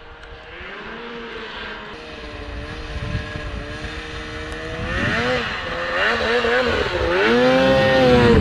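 Snowmobile engine running, its pitch rising and falling with the throttle several times and growing steadily louder as it comes closer.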